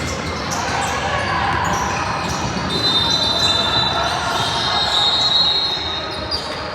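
Youth basketball game in a gym: a basketball bouncing on the court amid spectators' chatter, with high thin squeaks in the middle of the stretch.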